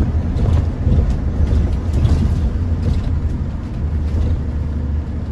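Inside a London bus on the move: the engine and road noise make a steady low rumble.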